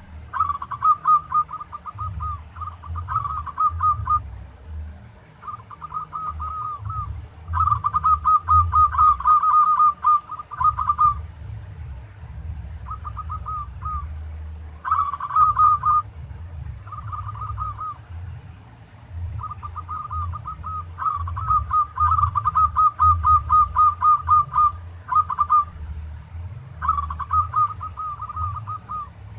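Local zebra dove (perkutut) calling in phrases of fast, rattling, trilled coo notes, some brief and some drawn out for several seconds, with short pauses between them. A low rumble runs underneath.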